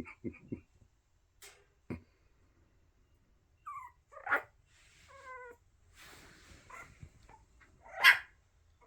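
Young puppies at play: a couple of short high yips and a brief whine, light scuffling, then one loud, sharp puppy bark near the end, among their first tries at barking.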